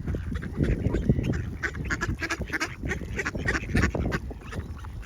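A group of ducks quacking, many short calls in quick succession, over a low rumble.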